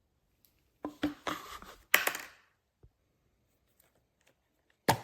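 Hard plastic clicks and knocks as parts of a cordless vacuum mop are handled: a quick cluster about a second in, the loudest near the middle, then a single sharp click at the end.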